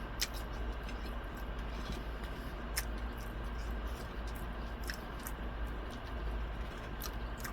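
Eating sounds: a few faint, sharp clicks, irregularly spaced, from chewing and handling food, over a steady low room hum.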